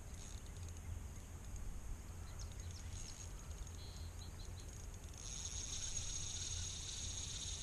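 Faint outdoor riverside background: a steady low rumble, joined about five seconds in by a thin, high-pitched steady buzz.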